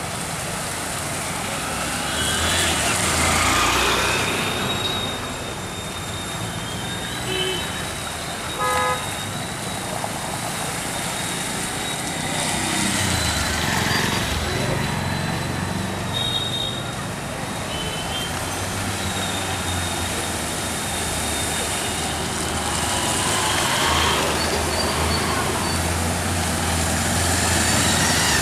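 Street traffic, with vehicles passing by every several seconds and a short horn beep about nine seconds in.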